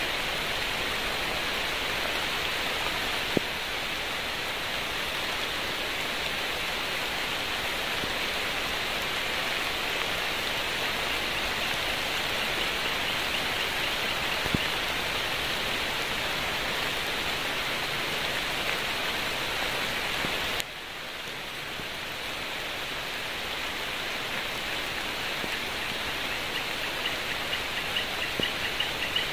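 Steady rain falling, an even hiss with a few sharp ticks. About two-thirds through it suddenly drops quieter, then slowly builds back. Near the end a fast, pulsing chirp joins in.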